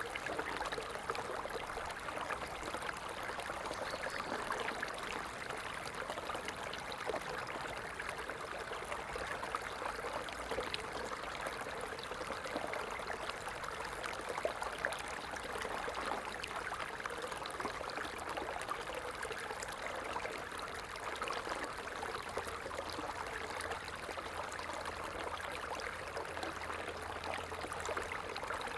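A stream running steadily: an even rush of flowing water with many small splashes and trickles that does not change.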